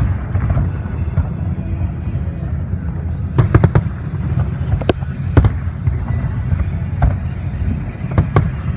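Fireworks display: a steady low rumble with scattered sharp bangs, a quick cluster of them about three and a half seconds in and several more near the end.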